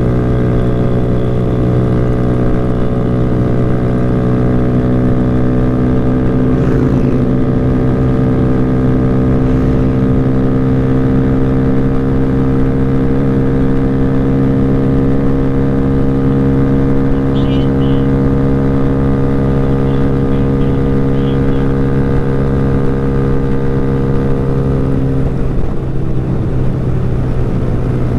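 Motorcycle engine running steadily at cruising speed, holding an even pitch, which shifts slightly a few seconds before the end.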